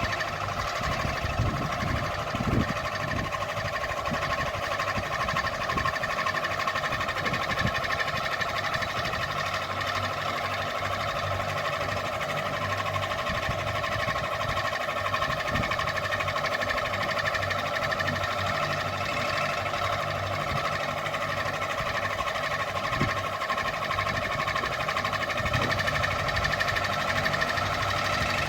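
Ceiling fan running: a steady whirring hum that holds constant, with a few soft low knocks underneath.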